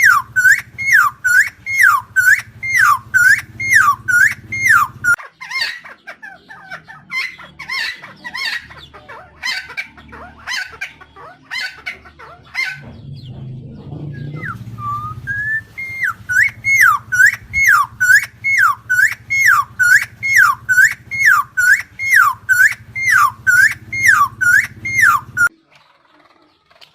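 Helmeted friarbird calling: a fast series of repeated notes, each dropping and then rising again, about two a second. In the middle the notes give way to a more jumbled, varied stretch, then the repeated series resumes and stops near the end.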